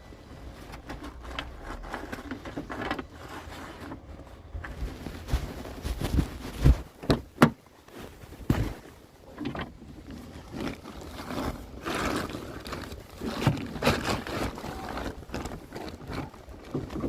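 Irregular knocks and scrapes of work in a sawmill, with no saw running, and a few loud sharp bangs about six to nine seconds in.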